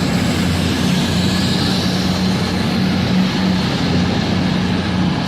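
Diesel train engine running steadily at the platform, a low even hum under a broad rumble with no change in pitch.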